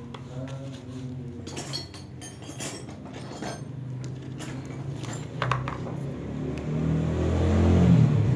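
Small metal parts and tools of a water pump clinking and clicking as they are handled during disassembly, several sharp knocks close together in the first half. A low steady hum runs underneath and grows louder near the end.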